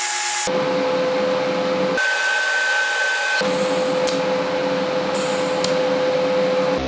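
Hand-held electric power tool running steadily with a whirring motor tone, in short spliced clips. Its sound changes abruptly about half a second, two seconds and three and a half seconds in.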